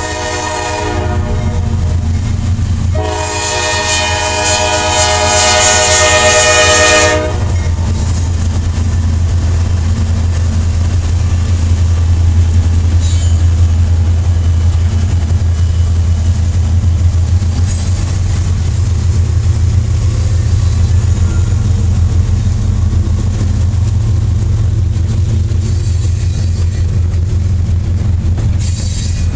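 Diesel locomotive air horn on an NS C44-9W leading a freight train: one blast trailing off right at the start, then a long, loud blast from about three to seven seconds in. The steady low rumble of the passing train's engines and cars continues underneath.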